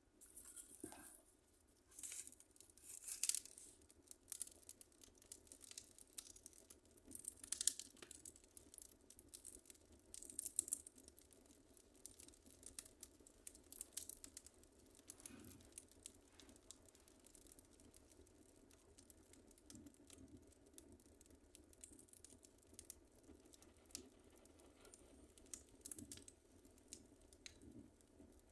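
Wood fire crackling in a fireplace: quiet, irregular crackles and pops, with a denser cluster of louder pops in the first ten seconds or so.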